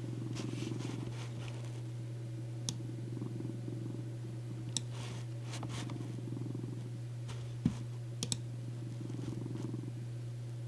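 Domestic cat purring steadily over a low constant hum, with a few scattered sharp clicks.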